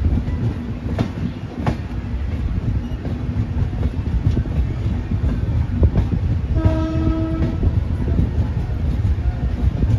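Passenger train coach running along a station platform, heard from an open coach door: a steady low rumble of wheels on rail with a few sharp clicks over rail joints. A little past halfway, a train horn sounds once for about a second.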